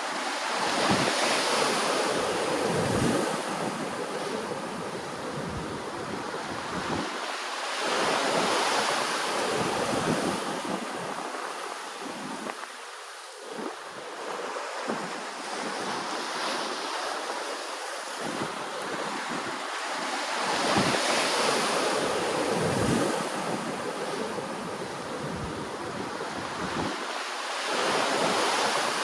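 Ocean waves washing in, the surf swelling and easing about every six or seven seconds.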